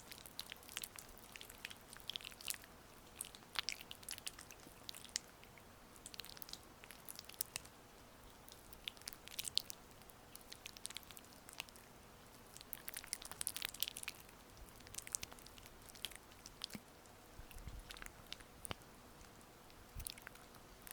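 Oily hands massaging skin close to a sensitive microphone: irregular soft, wet clicks and crackles in loose clusters over a faint steady hiss.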